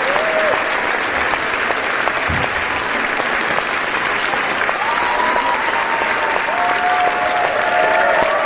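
A crowd applauding, many hands clapping steadily without a break. A few voices call out over it in the second half.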